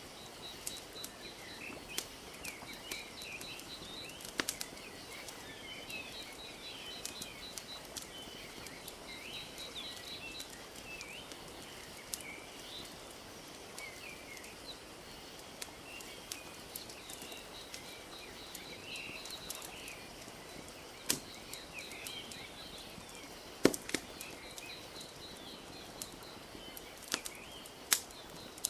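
Wood fire crackling with scattered sharp pops, the loudest about two-thirds of the way through and another near the end, over steady bird chirping and a rapid high trill that starts and stops. A soft even wash of lake water lapping runs beneath.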